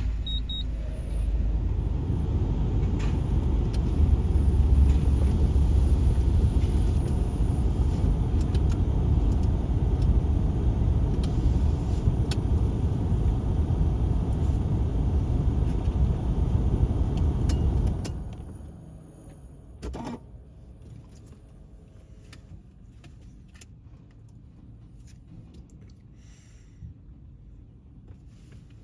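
Scania recycling truck's engine running with a steady low rumble, which drops away sharply about eighteen seconds in, leaving a quiet background with one brief knock.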